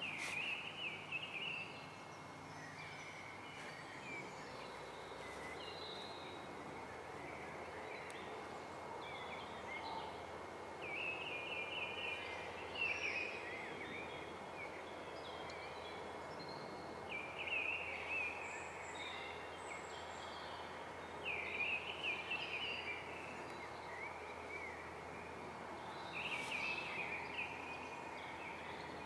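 Songbirds singing in short chirping phrases that recur every few seconds, over a steady outdoor background hiss.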